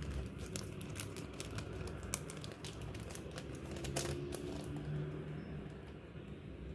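Stationery packaging crinkling and being handled: a run of quick, light clicks and crinkles that thins out after about four and a half seconds.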